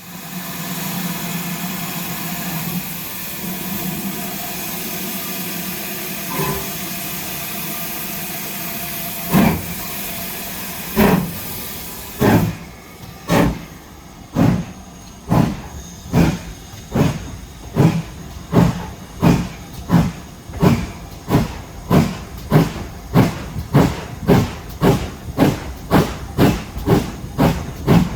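Steam locomotive starting away. A steady hiss of steam runs for the first several seconds; then, about nine seconds in, the exhaust chuffs begin, slow at first and quickening to about three every two seconds.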